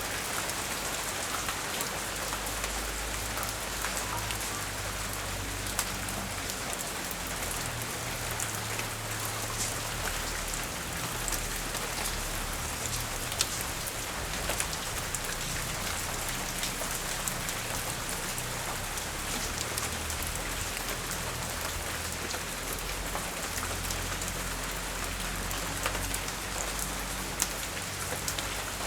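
Steady rain falling on surfaces, with scattered louder drops ticking throughout and a fluctuating low rumble of storm wind underneath.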